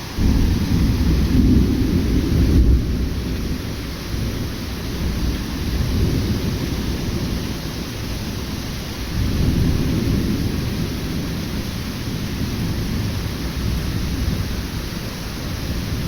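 Thunder rumbling over steady heavy rain. A deep rumble starts abruptly just after the start and fades over about three seconds, and a second, softer rumble swells about nine seconds in, with the rain's hiss throughout.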